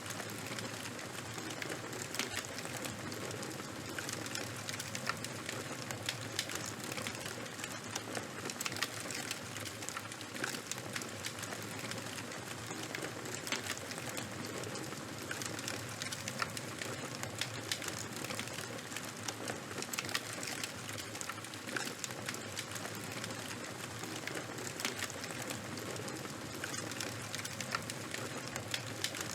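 Charcoal and bonfire burning: a steady hiss with frequent sharp, irregular crackles and pops.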